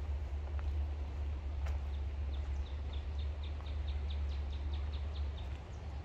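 A small songbird giving a quick, even run of short high chirps, about five a second, from about two seconds in until shortly before the end, over a steady low rumble.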